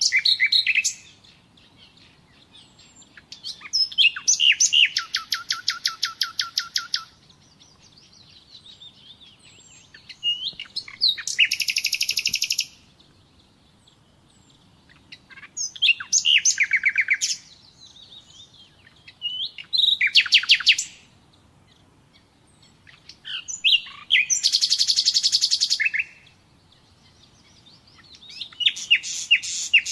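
Nightingale singing in separate phrases of one to three seconds. Most phrases are fast trills of rapidly repeated notes, with a pause of two to three seconds between them. About seven phrases are heard.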